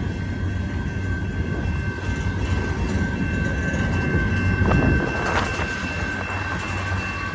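Freight cars rolling past at speed, their steel wheels rumbling and clattering over the rail joints, with a thin steady high-pitched ring from the wheels and rails. The clatter gets busier about five seconds in.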